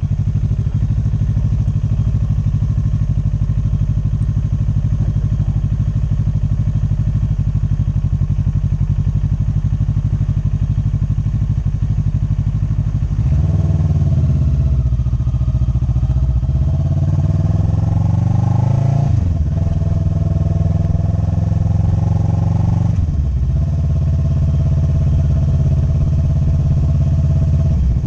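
Motorcycle engine heard from the bike's own camera, running steadily, then accelerating about halfway through with its pitch climbing for several seconds. The pitch then drops sharply twice as the rider shifts up, and the engine settles into a steady note.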